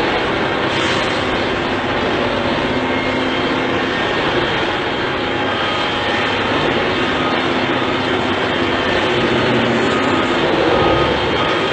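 Loud, steady vehicle engine noise, an even roar with a faint low hum through it.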